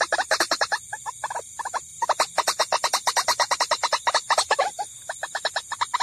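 White-breasted waterhen (ruak-ruak) lure call: a rapid run of short, repeated calls, about eight a second, breaking off briefly twice. It is played to draw waterhens to a trap.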